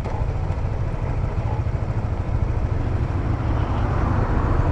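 A 150cc motorcycle riding along the road: a steady low rumble of engine, wind and road noise on the microphone, slowly growing a little louder.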